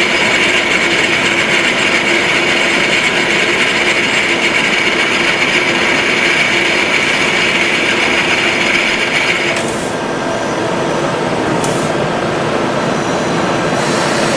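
Milling machine running and cutting: a steady mechanical whir with a high whine. About ten seconds in the whine drops away while the machine keeps running.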